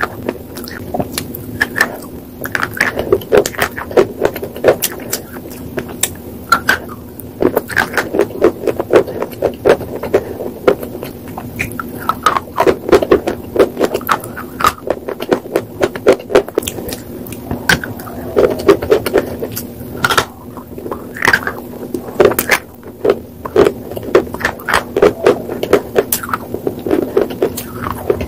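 Close-up chewing of hard, brittle white slate, with many sharp crunches and cracks coming in quick clusters bite after bite. A steady low hum runs underneath.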